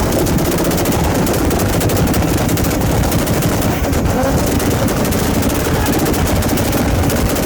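Car engine held against a rev limiter, its exhaust popping in a rapid, steady string of bangs.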